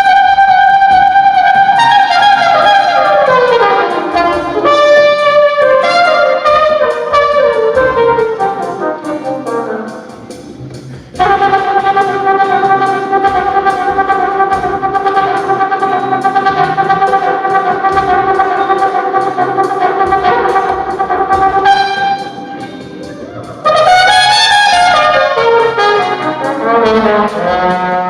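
A flugelhorn played solo in long wailing notes and sliding glides that imitate a steam train's whistle. The first notes fall away in slides, then one note is held for about ten seconds, and near the end the pitch swoops up and falls away again.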